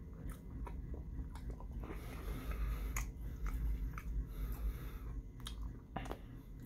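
Close-miked chewing of a ketchup-dipped seasoned fry, with many short wet clicks and smacks of the mouth, busiest in the middle.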